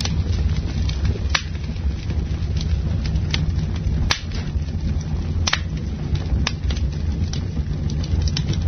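Campfire burning, with a steady low rumble and several sharp crackling pops of the wood.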